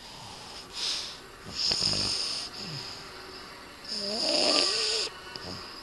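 Boston terrier snoring: three rasping snore breaths, each longer than the last, the last with a wavering whistle.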